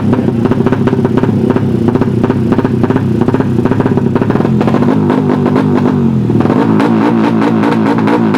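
Tuned open-class 200cc underbone motorcycle engine revving loudly through its exhaust, its note changing about six and a half seconds in.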